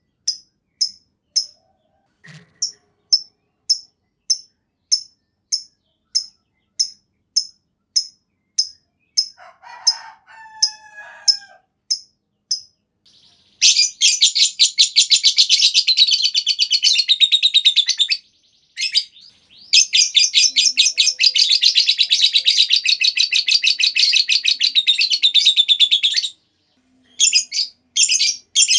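Lovebird calling: short, sharp, high chirps repeated about two a second, then breaking into two long, rapid chattering trills ('ngekek panjang') of about four and six seconds. Single chirps pick up again near the end.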